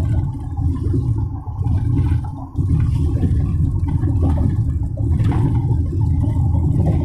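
Loud, steady low rushing rumble of a car driving along: road and wind noise, with a brief dip about two and a half seconds in.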